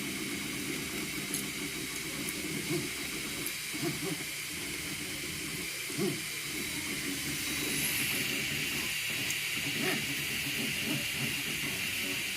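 3D printer printing: its stepper motors whine in shifting tones as the print head moves, over the steady hiss of its cooling fans, which grows a little louder about eight seconds in.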